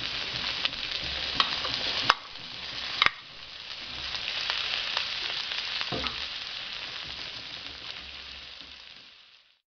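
Chicken and long beans sizzling in a hot stainless steel wok, with a few sharp taps against the metal, the two loudest about two and three seconds in. Carrot sticks are tipped in and stirred with a metal spatula, the sizzle swelling again before fading out near the end.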